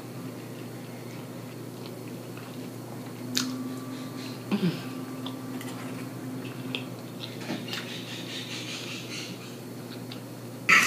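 Close-up wet chewing and mouth smacking of soft curry and rice, with a few sharp clicks of a metal fork against the plate; the loudest click comes near the end. A steady low hum runs underneath.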